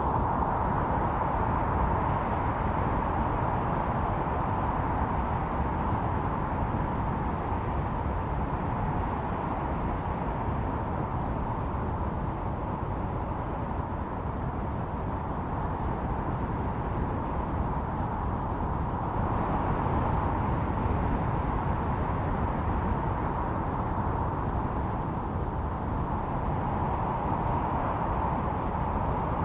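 Howling blizzard wind: a steady deep rush with a whistling tone on top that swells and fades, the gusts picking up again a little after halfway.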